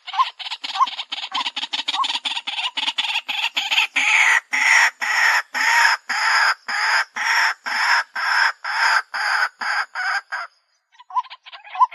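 White-breasted waterhen calling: a fast run of repeated notes that turns into louder, slower notes at about two or three a second, sliding down in pitch. The calling breaks off shortly before the end, then resumes as short clipped notes.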